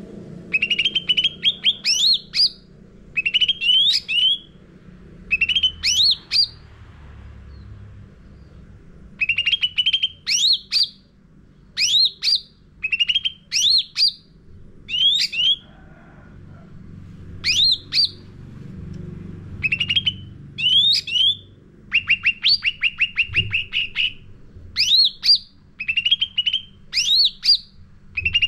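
Cucak ranting songbird singing in short, loud phrases of quick upward-sweeping whistled notes, phrase after phrase with brief pauses. A rapid run of short repeated notes comes about two-thirds of the way through.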